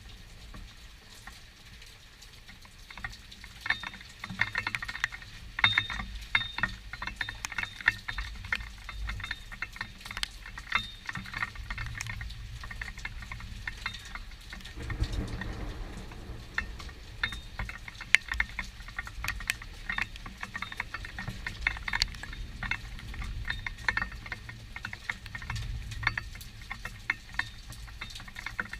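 Rain falling in a thunderstorm, with many irregular drops pattering and tapping close to the microphone. A soft low rumble of distant thunder comes about halfway through.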